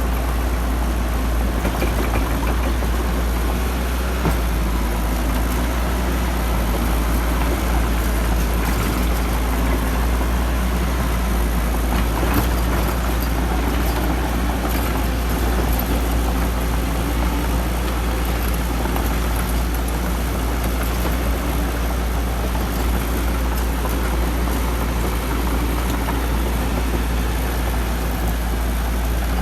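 Excavator's diesel engine running steadily, a continuous deep drone.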